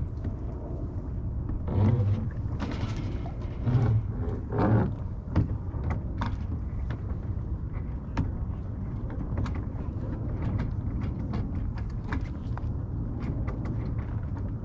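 Scattered clicks and knocks of a sailboat's jib pole and its fittings being handled and taken down, with a few louder clunks in the first five seconds, over a steady low rumble.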